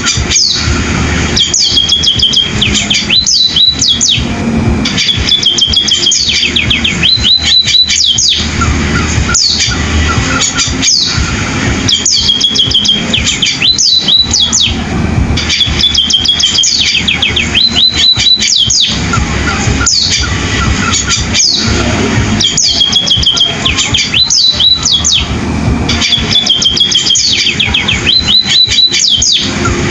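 Munia (Indonesian pipit, emprit) singing a fast, canary-like song of chirps and trills, with similar phrases repeating every couple of seconds.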